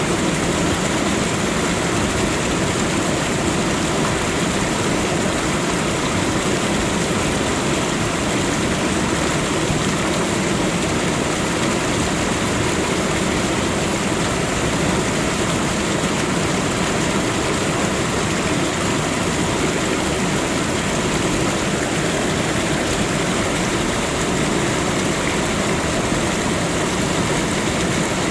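Waterfall: water pouring and splashing in a loud, steady, unbroken rush.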